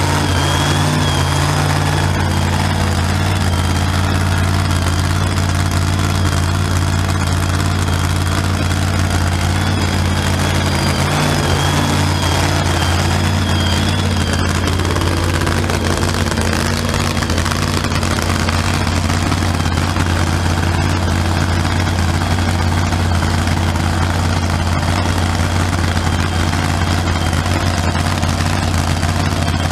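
Supercharged 2,800-horsepower engine idling, really loud and steady: a deep drone with a faint high whine on top that fades out about halfway through.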